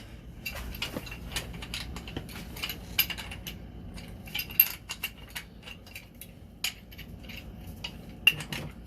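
Irregular metallic clicks and clinks of a wrench working a threaded fitting on a water pipe, with a sharper clink about halfway and another near the end.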